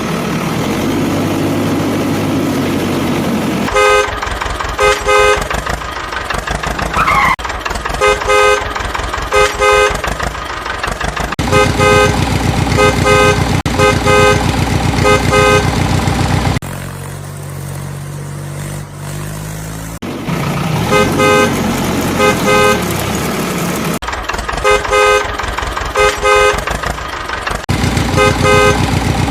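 Tractor engine running with a fast low chug, with a horn honking again and again in short pairs and runs of beeps over it. For a few seconds in the middle the engine changes to a lower, steadier tone with no honking.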